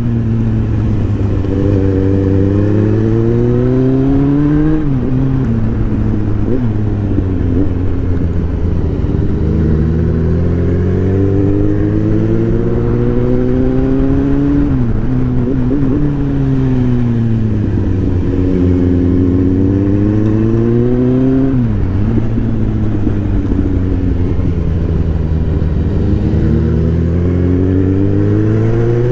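Superbike engine under way, its note climbing slowly under throttle, then falling sharply and winding down before it climbs again, several times over.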